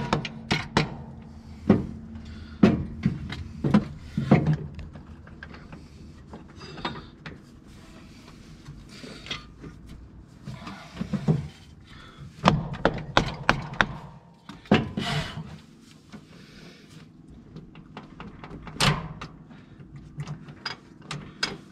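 Irregular knocks, taps and clicks of tools and metal parts being handled and fitted on a tractor's gear lever assembly. They come in clusters with pauses, over a faint steady low hum.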